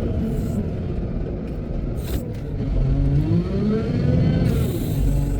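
Wheel loader's diesel engine running with a low rumble, its pitch rising and falling back once about three seconds in, with a couple of short knocks.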